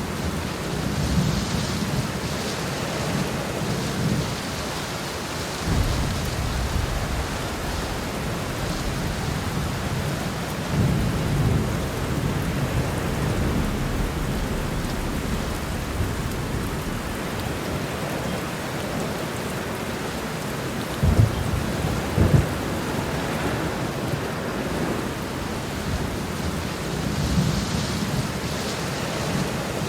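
Heavy rain pouring steadily, with thunder rumbling low several times, including two sharper claps close together about two-thirds of the way through.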